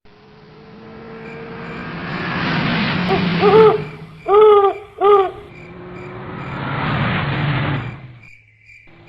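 Road traffic passing close by, swelling and fading twice. In the middle a vehicle horn gives four short toots, each bending up and down in pitch.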